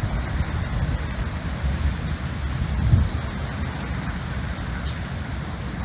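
Heavy rain pouring down during a thunderstorm, a steady hiss over a deep low rumble that swells briefly about three seconds in.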